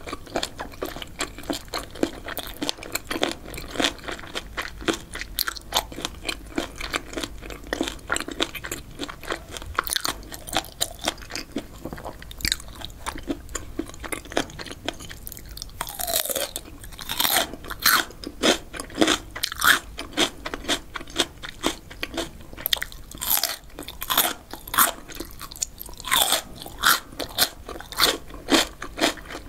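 Chewing of spicy boneless chicken feet, with a quick run of small wet crunches from the cartilage. About halfway through come louder, crisper crunches as bites are taken from a raw cucumber spear and chewed.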